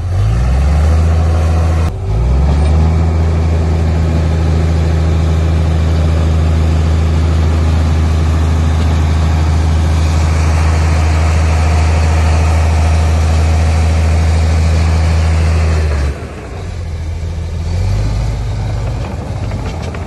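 Heavy diesel engine of an earthmoving machine working under load. It revs up at the start, dips briefly about two seconds in, then holds a steady, loud drone; about sixteen seconds in it drops off abruptly, and it revs up again near the end.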